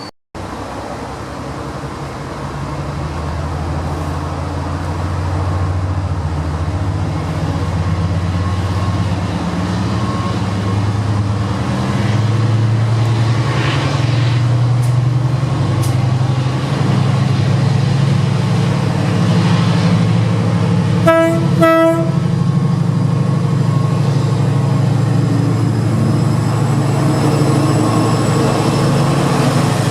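Diesel train engine running and growing louder as the train approaches. Two short toots on its horn come about two-thirds of the way through.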